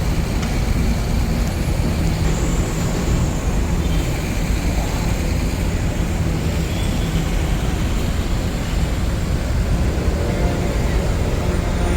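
Engines of a slow-moving convoy of farm tractors running together as a loud, steady drone.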